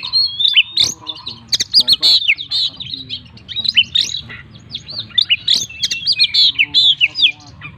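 Oriental magpie-robin singing nonstop: a fast, varied run of short chirping and whistled notes, filled with mimicked calls of other birds.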